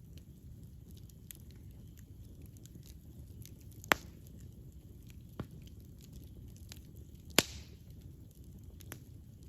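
Campfire burning: a steady low rumble of flames with scattered light crackles, and two sharp loud pops of burning wood, about four seconds in and again about seven seconds in, with fainter pops between.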